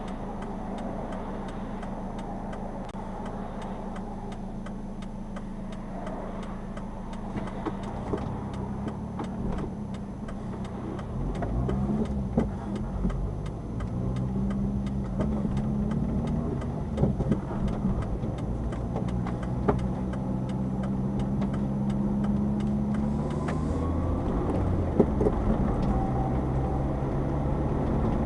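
Subaru Sambar's small engine idling steadily, then about eleven seconds in it pulls away, the engine note rising and dropping back with each upshift of the five-speed manual gearbox.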